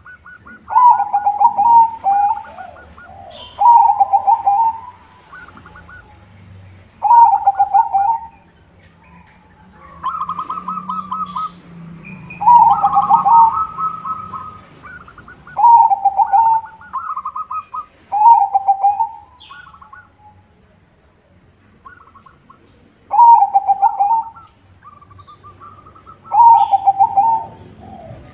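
White zebra dove (perkutut) singing, its phrase repeated about nine times, every two to three seconds, with a longer pause about two-thirds of the way through. Each phrase is a quick stuttering trill dropping into a lower, rolling coo.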